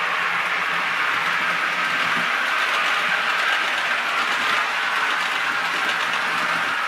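Model Blue Pullman diesel train set running on model railway track: a steady mechanical whirring from its motor and gears, with the wheels running on the rails.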